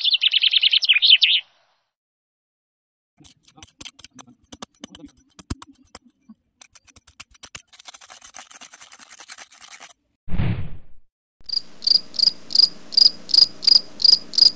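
A small metal trowel scraping and digging in dry, sandy soil, a run of short gritty scrapes and clicks. A high chirping comes in the first second, and a rhythmic chirping, about three pulses a second, runs over the last few seconds.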